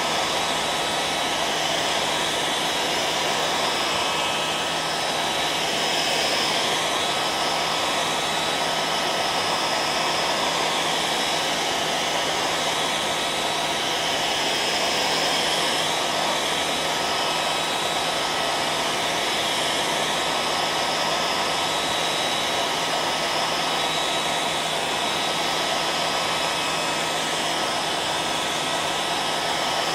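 Electric hair dryer running continuously: a steady rush of blown air over the even whine of its motor and fan, unchanging.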